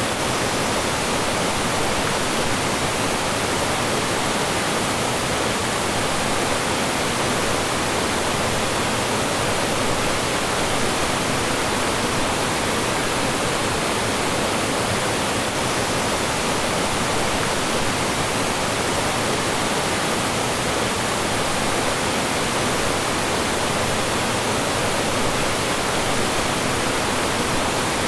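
Mountain stream rushing and splashing over rocks in small falls: a steady, unbroken rush of water.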